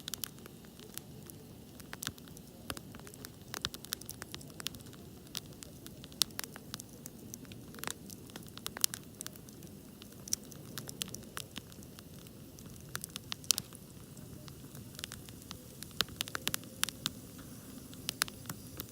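Wood campfire burning: irregular crackles and sharp pops of the burning wood over a steady low rush of the flames, with a few louder snaps.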